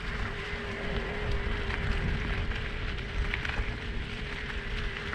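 Riding noise from a Specialized Turbo Levo electric mountain bike: wind buffeting the microphone and a low rumble from the ride, with scattered small clicks and a steady whine.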